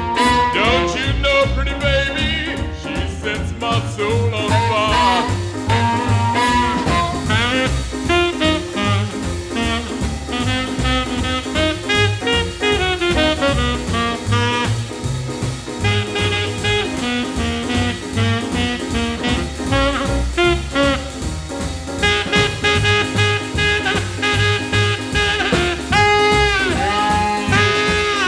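Swing jazz band playing an instrumental passage with horns over a steady beat.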